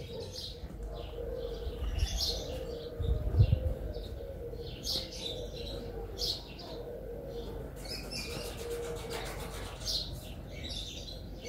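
Birds chirping, short high calls repeating over a faint steady hum, with one low thump about three and a half seconds in.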